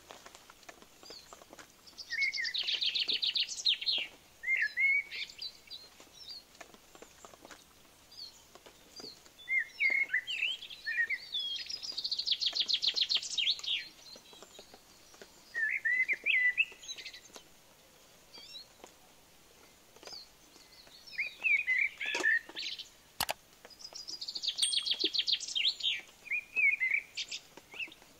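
A songbird singing outdoors: three times, about ten seconds apart, a fast high trill of about two seconds followed by a few short chirps. There is a single sharp click late on.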